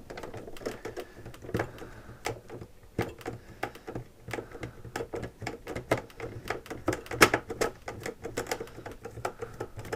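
A screwdriver taking out screws from a SodaStream's plastic housing: a run of small irregular clicks and ticks, with a sharper click about seven seconds in.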